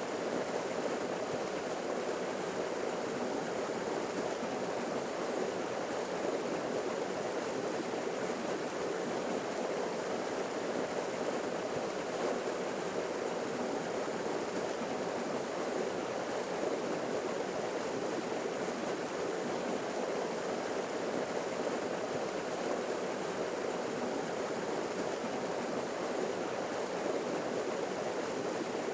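Small forest waterfall, water falling and splashing in a steady, even rush.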